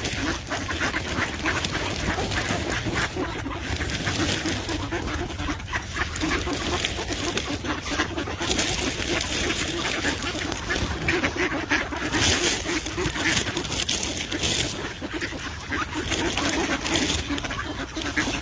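A group of ducks quacking continuously at close range as they crowd in to be hand-fed.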